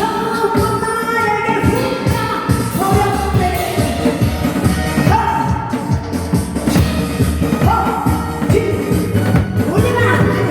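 Amplified singing over a loud backing track with a steady drum beat.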